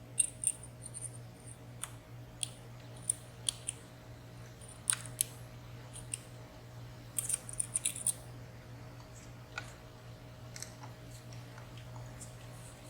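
Small, sharp metallic clicks and ticks of lock picks and a tension tool working the pins and sliders of a WSW W10 high-security padlock. They come in irregular clusters, thickest near the start and again about seven to eight seconds in.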